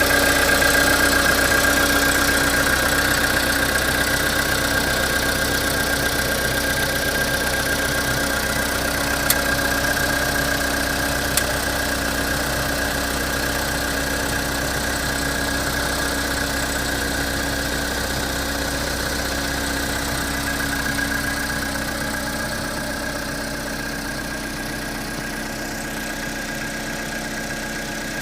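Volkswagen Polo sedan's 1.6-litre four-cylinder petrol engine idling steadily while still warming up after a cold start near freezing, with a steady high whine over the engine note. It gets a little quieter about three quarters of the way through, and two faint clicks come around the middle.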